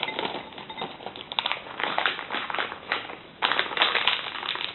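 Plastic food packaging crinkling and rustling as it is handled: dense irregular crackles, louder about three and a half seconds in.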